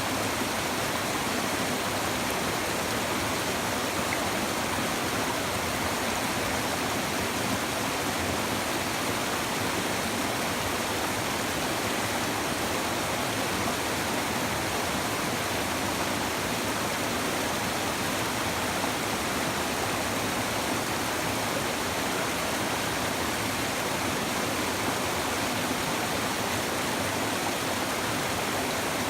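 A shallow river babbling and rushing steadily over stones, an even wash of flowing water with no pauses or changes.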